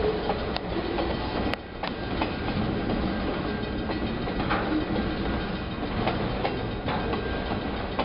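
BNSF autorack freight train rolling past, a steady rumble with irregular clicks and clacks from the wheels on the rails.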